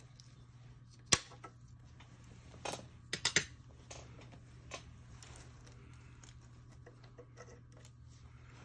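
Pliers snipping off the twisted ends of MIG welding wire that binds a loose exhaust heat shield: a sharp click about a second in, then a quick run of clicks around three seconds in and a few fainter ticks.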